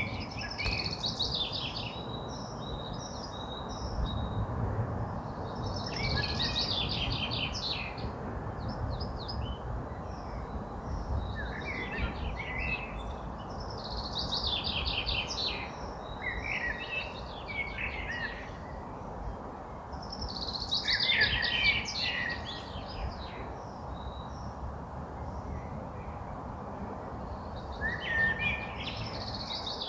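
A songbird singing a series of short, fast-trilled song phrases, each about two to three seconds long, about six times with pauses of a few seconds between. A steady low rumble of outdoor background noise runs underneath.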